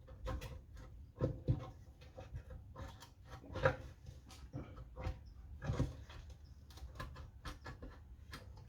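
Irregular light knocks and clatter of the fuel tank being worked loose and lifted off a Honda GX110 small engine, with a few sharper knocks among the handling noises.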